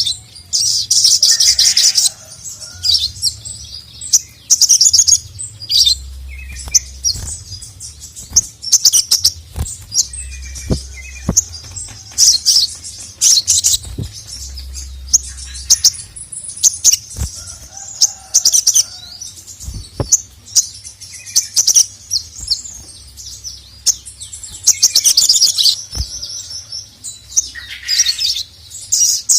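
A sogok ontong (sogon) singing in its worked-up calling mode: repeated bursts of fast, high-pitched chattering and sharp chirps, broken by short gaps.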